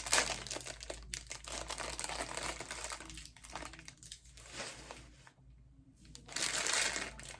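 Packaging crinkling and rustling as it is handled and torn open by hand, with a quieter pause after about five seconds and a louder spell of crackling near the end.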